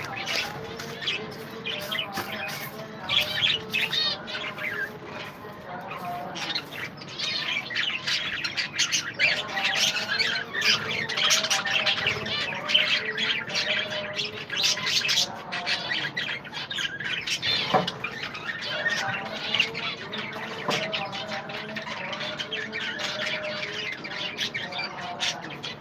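A colony of budgerigars chattering all at once, a dense, unbroken stream of squawks, chirps and warbled notes.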